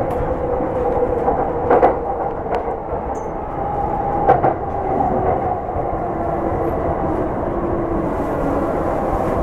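JR commuter train running along the track, heard from inside the carriage: a steady rumble of wheels on rail with a hum that slowly drifts lower in pitch, and a few sharp clicks.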